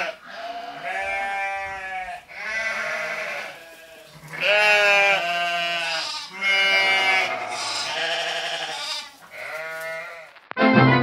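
An animal bleating, about seven long, quavering calls in a row, each around a second long with short gaps between them.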